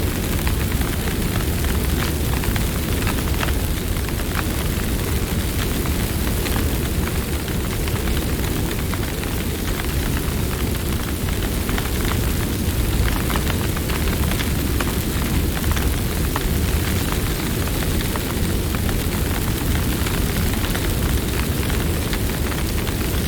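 Campfire burning steadily with a low rumble, crackling with many small, quick pops of burning wood.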